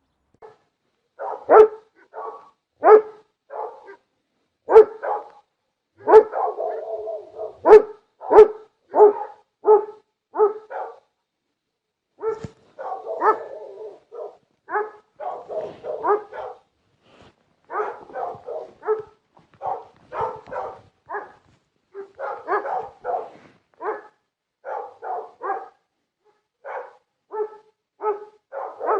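A dog barking repeatedly in short, separate barks, sometimes in quick runs of two or three, loudest in the first third and a little softer later.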